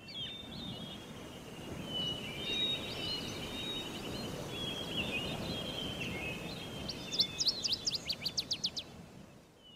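Birds chirping and twittering over a steady outdoor background hiss, with a quick run of sharp high chirps, several a second, about seven seconds in, fading out near the end.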